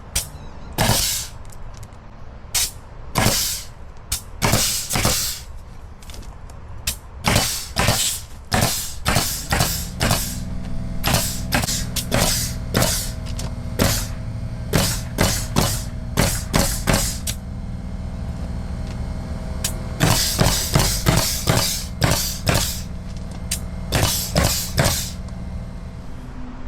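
Repeated short, sharp bursts, typical of a pneumatic nail gun firing nails into fence boards, coming in irregular runs with a pause in the middle. A steady motor hum, like an air compressor running, starts about ten seconds in.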